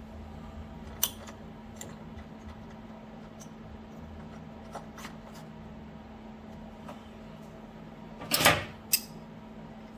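Steel bolt and washers of a homemade bushing puller clinking as they are handled and fitted into a leaf spring eye. There is a sharp click about a second in, and a short metal rattle followed by one more click near the end.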